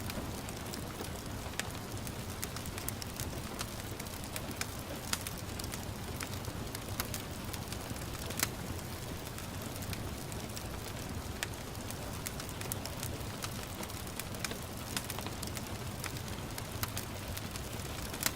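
Wood fire crackling in a fireplace, with irregular sharp pops and snaps over a steady low rumble, and gentle rain falling as a soft, even hiss.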